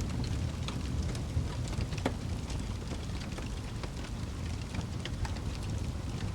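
Wood fire in a fireplace burning with a steady low rumble and scattered sharp crackles and pops, one louder pop about two seconds in.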